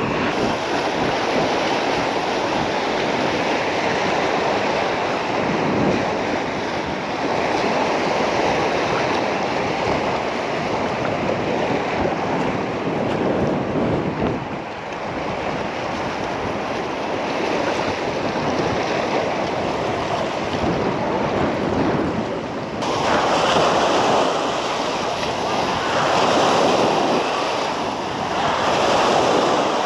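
Sea surf washing onto a beach in a steady rush, with wind buffeting the microphone. The wash swells louder a few times in the last several seconds.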